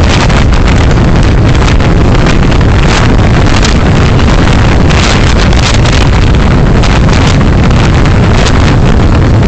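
Loud, steady road and wind noise from a moving car, picked up by a dashcam microphone: a constant low rumble with hiss and fine crackle over it.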